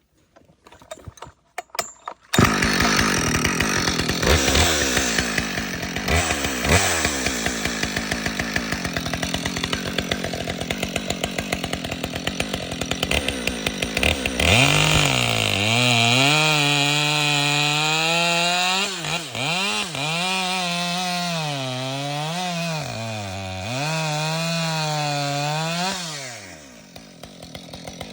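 Husqvarna 572XP two-stroke chainsaw sputtering and then firing up about two seconds in, idling roughly with a few brief revs. Near the middle it goes to full throttle and cuts through wood, its pitch sagging and recovering several times as the chain loads in the cut, then drops back to idle near the end.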